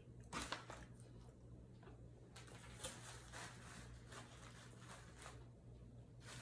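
Faint eating sounds: soft crisp clicks and crunches of chewing and handling a messy crispy chicken sandwich, thickest in the second half, over a low steady hum.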